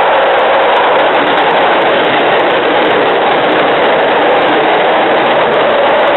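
MBTA commuter train running past the platform at speed on the near track: a loud, steady rush of wheels on rail and moving air.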